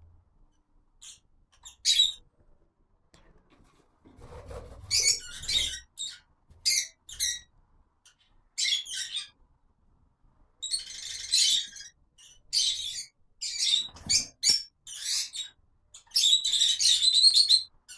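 African lovebirds calling: a run of shrill, high-pitched chirps and squawks, some clipped and some drawn out for about a second. The longest and loudest calls come near the end.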